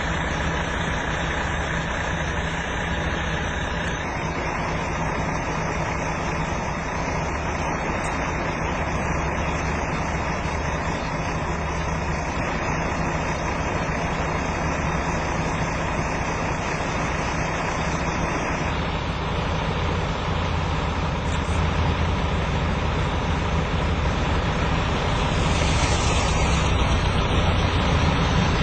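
Steady hum of a running vehicle engine over a constant wash of noise, growing a little louder near the end.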